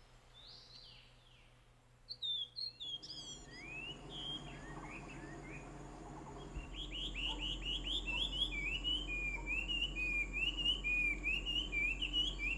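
Wild songbird singing: a couple of clear falling whistled notes near the start, a scatter of quick notes a few seconds in, then from about halfway a fast, continuous run of short rising chirps, about three or four a second.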